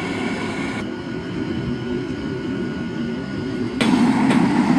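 Forge burner running with a steady rumbling rush. About a second in the higher hiss drops away, and near the end it gets louder again, with a few faint clicks.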